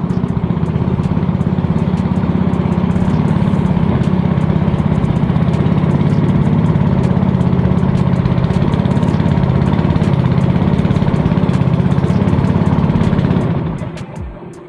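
Small motorboat engine running steadily with an even, fast pulsing beat, then dying away near the end.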